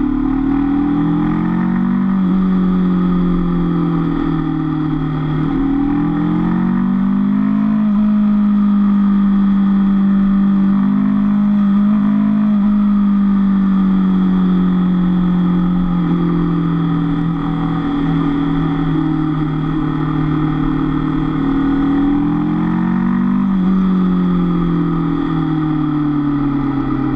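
Honda CB500F's parallel-twin engine on the move, heard from the bike itself. Its pitch climbs and drops several times in the first few seconds, holds steady through the middle, eases down, then rises and falls again near the end.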